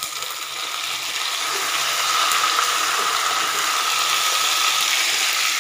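Freshly added tomato slices sizzling in hot oil with onions and capsicum in a kadhai, a steady hiss that grows louder over the first couple of seconds and then holds.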